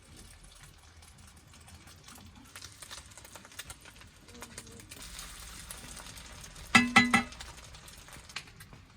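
Food frying in a pan while being stirred, with a faint steady sizzle. About seven seconds in there is a short, loud clatter.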